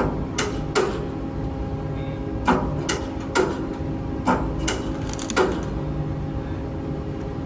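Steady drone of a ship's engine-room machinery, with about nine sharp knocks in uneven groups over the first five and a half seconds, like metal parts or footsteps striking steel.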